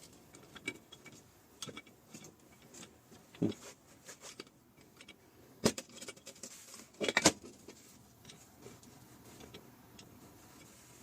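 Sparse metallic clicks and knocks from an electric winch motor's brake being turned and tested with a hex key, with two louder knocks a little past halfway.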